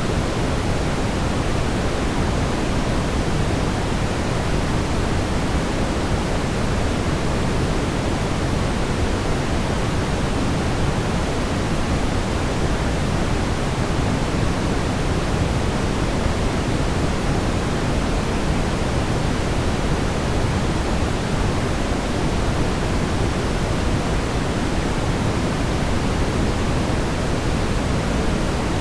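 Steady brown noise, a deep, even rumbling hiss with no changes.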